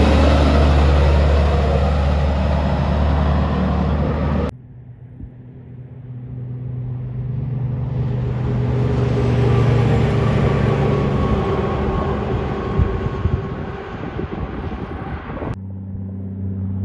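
Kenworth trucks' heavy diesel engines in three separate clips. A loud engine runs with a deep steady tone, then after a sudden cut a truck's sound builds up over several seconds and fades away as it passes, and near the end another cut brings in a steady engine hum.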